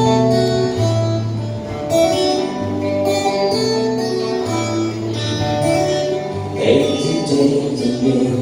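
Instrumental song intro: picked guitar notes over a low bass line, with a strum about two-thirds of the way through.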